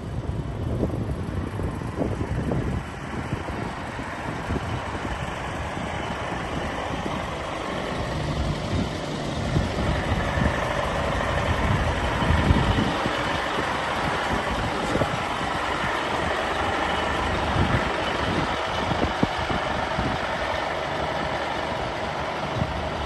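Scania tanker truck's diesel engine running steadily, with wind buffeting the microphone.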